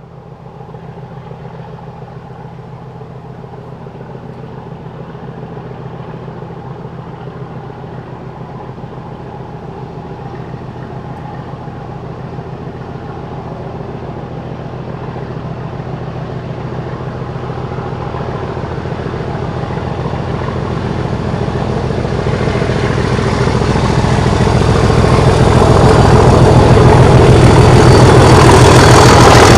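Railway locomotive working up a steep gradient, approaching and growing steadily louder until it is very loud near the end.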